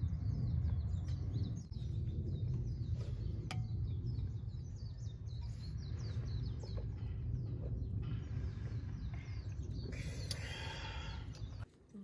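Small birds chirping in quick runs of short, falling notes over a steady low rumble, with a louder, longer call about ten seconds in. The sound cuts off abruptly just before the end.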